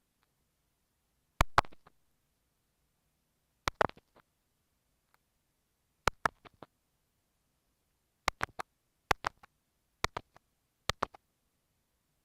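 Kinetic-sand slime worked against an earphone microphone: seven short clusters of sharp, crackling clicks with silence between them, coming more often in the second half.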